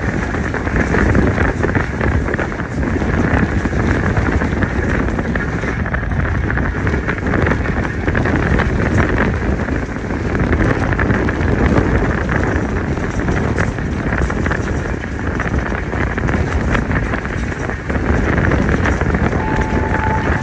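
Passenger train running at speed: a steady rumble of wheels on the track, with wind buffeting the microphone.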